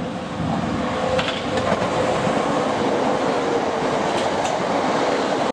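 Southeastern Class 465 electric multiple unit running through the station: a loud, steady rush of wheels on rail with a held hum and a few clicks of wheels over rail joints.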